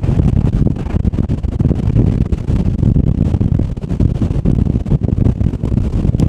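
Strong snow-squall wind gusting against the camera microphone: a loud, low, buffeting rumble that swells and dips throughout.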